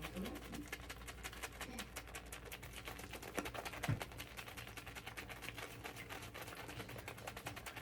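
Shaving brush swirled on a tub of shaving soap to load it, a fast, faint scratchy ticking of bristles on the soap. There is a soft knock about four seconds in.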